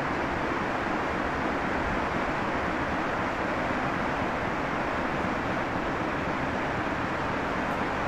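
A train ploughing through deep snow: a steady rushing noise with no distinct engine note.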